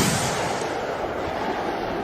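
Fireworks: the rolling rumble and echo of a firework explosion slowly dying away, growing duller as it fades.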